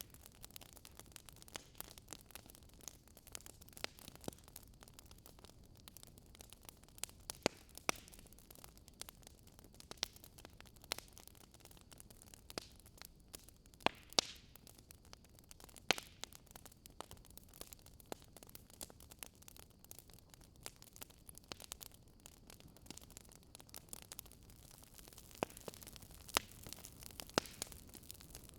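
Fireplace fire crackling gently: irregular sharp pops and snaps, a few louder than the rest, over a soft steady hiss.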